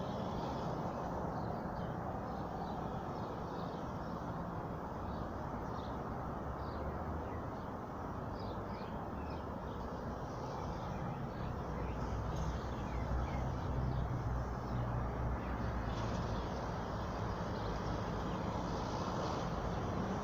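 Outdoor ambience: a steady low rumble and hiss, a little louder in the second half, with faint short bird chirps scattered through.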